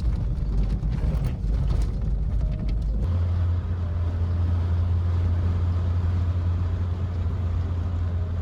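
Car driving, with a continuous low road and engine rumble inside the cabin. About three seconds in, the sound changes suddenly to a steadier, deeper hum.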